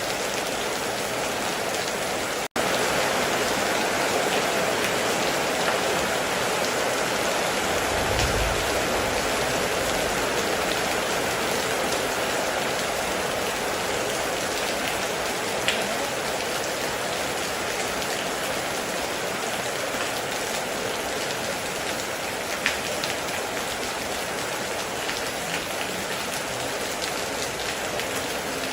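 Steady heavy rain falling, an even hiss of dense raindrops. A split-second gap about two and a half seconds in, after which the rain is slightly louder, and a short low rumble about eight seconds in.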